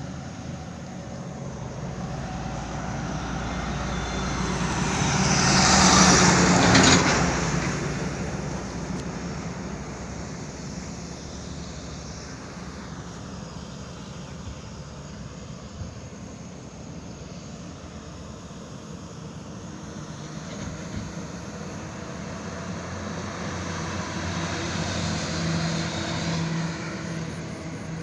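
A road vehicle passes by, growing louder to a peak about six seconds in and then fading. A steady engine hum stays underneath, and a second, smaller swell of vehicle noise comes near the end.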